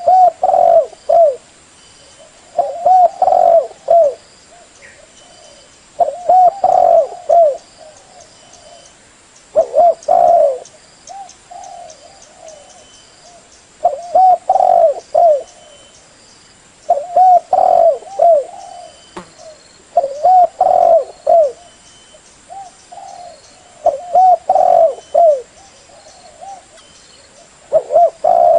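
Female spotted dove cooing in short phrases of a few notes, repeated about every three to four seconds, with softer coos in between. This female call is used to stir a caged male decoy dove into cooing.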